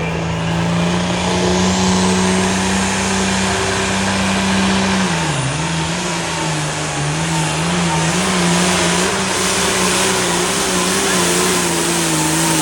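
A pulling vehicle's engine running hard at high, steady revs while dragging the sled. About five seconds in, the revs drop and then surge and sag repeatedly as the engine loads down under the sled's weight.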